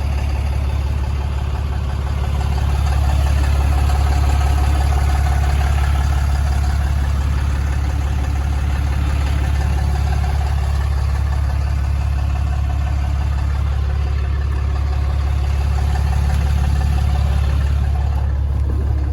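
A 6.7-liter Cummins diesel in a Ram 5500 idling steadily, a low even hum that grows slightly louder about three seconds in.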